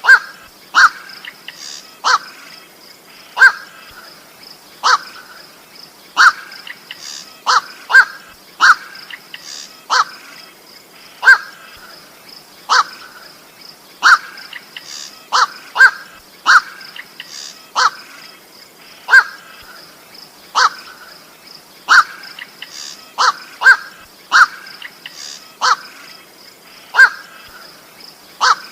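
Short, harsh single calls of the bird known in Indonesian as koak or goak, repeated about once every second or so, sometimes in quick pairs. A faint steady high buzz runs underneath.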